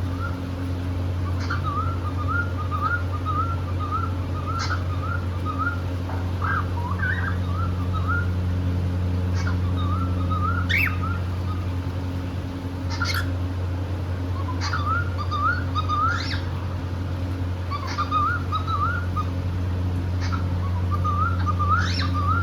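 Cockatiel whistling: runs of quick warbling notes broken by a few sharp rising chirps, over a steady low hum.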